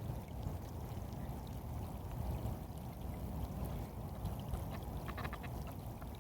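Outdoor ambience: a steady low rumbling noise, with a short cluster of faint clicks or chirps about five seconds in.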